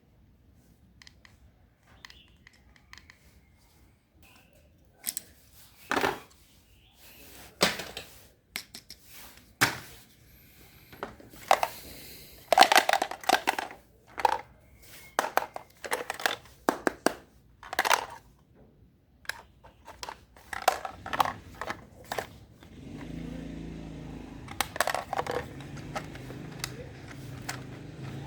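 Small objects being handled and rummaged through: scattered clicks, knocks and crinkling, some sharp and loud. About two-thirds of the way in, a steady low hum starts and continues under further clicks.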